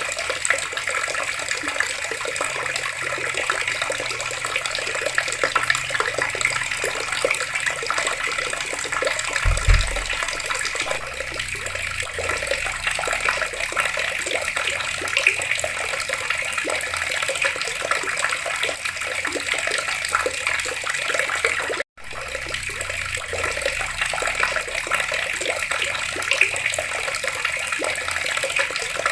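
Water taps running steadily, an even splashing rush of falling water, with a short low thump about ten seconds in and a split-second break in the sound about two-thirds through.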